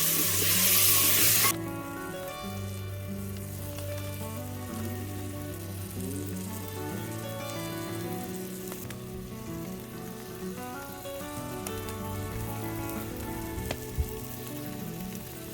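Food frying with a loud sizzle for about the first second and a half, cut off suddenly. Background music with a steady bass line follows.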